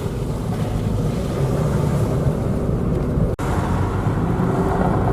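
Citroën Saxo driving on a slushy road: steady engine and tyre rumble, with a momentary break about three and a half seconds in.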